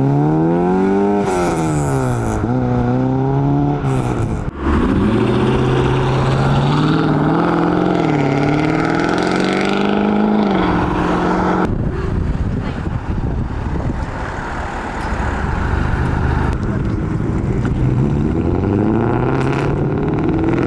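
Modified cars' engines revving and accelerating as they pull away, the pitch rising and falling with the throttle. The sound changes abruptly a couple of times from one car to the next.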